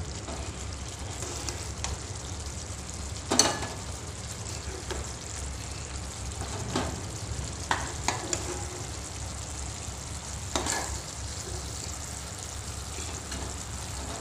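Thick onion, yogurt and cashew masala gravy sizzling and bubbling in a nonstick pan over a low steady hum, with a few sharp clicks and knocks now and then, the loudest about three seconds in.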